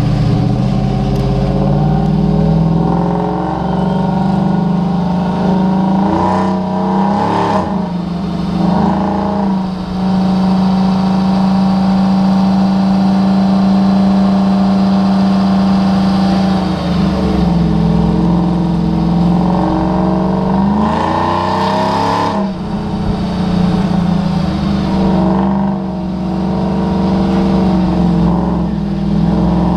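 Turbo diesel pickup engine under full load on a chassis dyno, running at high revs. Its pitch climbs and then drops sharply several times as it shifts through the gears.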